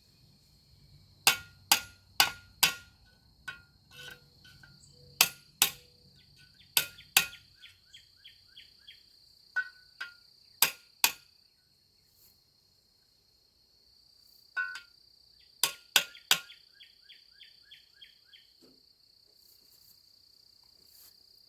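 Hammer tapping a new S-cam bushing onto a trailer brake S-cam: a dozen or so sharp blows in irregular clusters, some followed by a short run of light, fading ticks, with a pause of a few seconds in the middle. A steady high insect buzz runs underneath.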